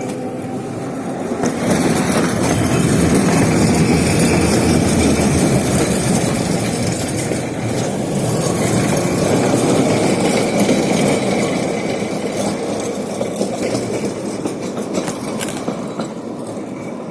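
Motorcycle riding through city traffic: engine and road noise with wind rush. The noise swells about a second and a half in and eases off toward the end.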